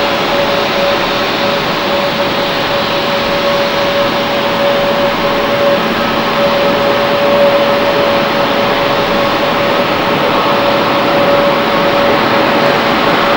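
Jet airliner engines running, a loud even rushing noise with a steady hum-like whine held at one pitch.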